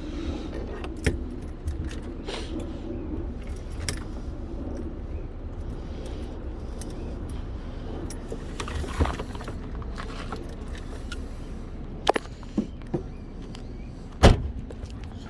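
Hand work on plastic car dashboard trim: scattered sharp clicks, clacks and rattles of trim pieces, clips and small tools being handled, with a loud sharp knock near the end.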